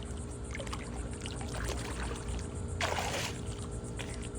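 Pool water sloshing and lapping as a toddler swims under for a toy, with a short splash about three seconds in.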